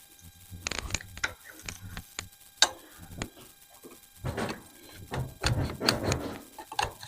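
Irregular metal clicks, taps and scrapes of AR-15 parts and tools being handled and worked at a vise, with a couple of longer scraping, grinding stretches in the second half.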